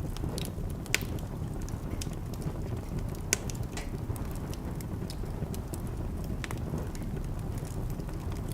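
Wood fire in a fireplace crackling over a steady low rumble, with scattered small crackles and two louder pops, about a second in and about three seconds in.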